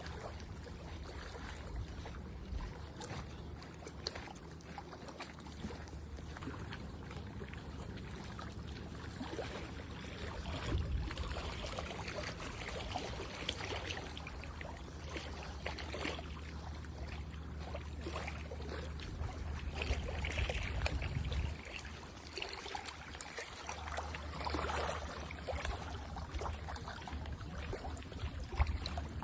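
Water trickling and lapping, with irregular small splashes, over a steady low hum that drops out briefly about three-quarters of the way through.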